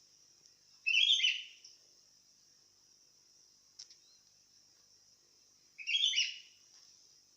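Sooty-headed bulbul (kutilang) singing two short chirpy phrases, about a second in and again about six seconds in.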